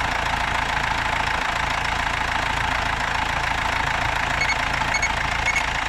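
Mercedes Sprinter diesel engine idling steadily after a crank-but-no-start fault, running with the fuel rail pressure sensor connected. Three short high beeps sound near the end.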